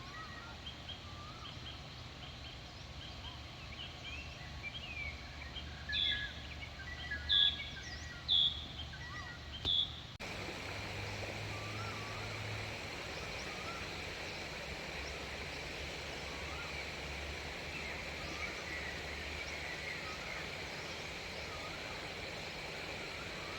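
Birds calling: scattered chirps, then four loud short calls a second or so apart. About ten seconds in, the sound changes abruptly to a steady hiss of outdoor ambience with fainter bird calls.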